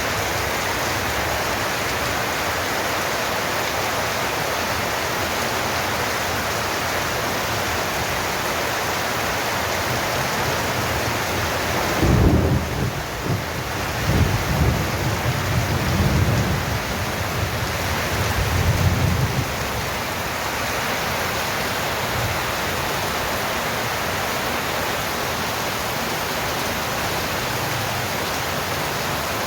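Steady heavy rain hiss, broken about twelve seconds in by a sudden thunderclap that rolls on as low rumbling thunder in several swells for about eight seconds before the rain alone returns.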